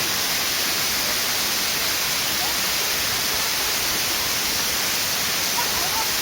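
Waterfall rushing steadily, an even hiss that does not change, with a couple of faint short chirps in the middle and near the end.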